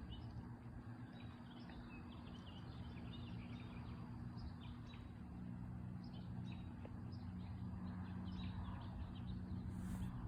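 Small birds chirping, many short calls one after another, over a faint steady low hum.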